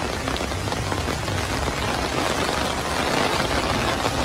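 Heavy rain pouring steadily onto a flooded street, a dense even hiss of drops striking standing floodwater.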